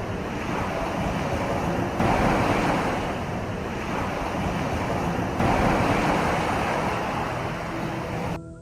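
Steady rushing noise of surf, with abrupt small jumps in level about two and five seconds in.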